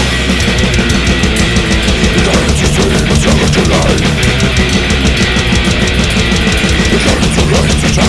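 Death/thrash metal recording: heavily distorted electric guitars and bass over fast, dense drumming, loud and unbroken.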